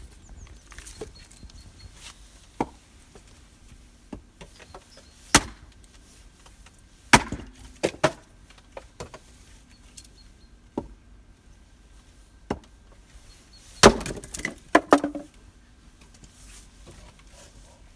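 Irregular sharp wooden knocks and clatters, a dozen or so spread out with quiet between them, the loudest coming in a quick cluster about three-quarters of the way through.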